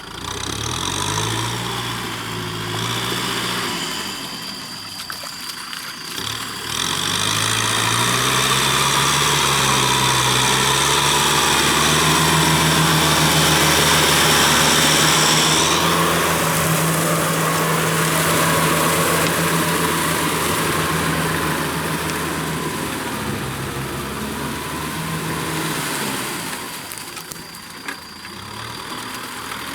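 Kubota M6040 tractor's diesel engine revving up twice, the second time held high for several seconds before easing off and fading away near the end.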